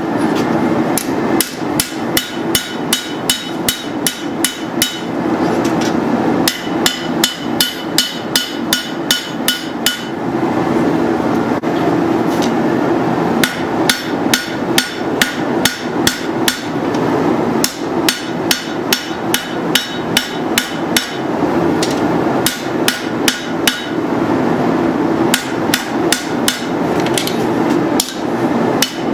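Hammer blows on hot steel against an anvil as a machete blade is forged, in runs of about three strikes a second with a ringing tone, broken by short pauses. A steady rushing noise runs underneath.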